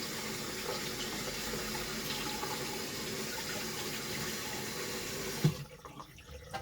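Tap water running steadily over a washing machine's drain pump filter as it is rinsed clean. The flow cuts off suddenly with a knock about five and a half seconds in, followed by a few faint drips and clicks.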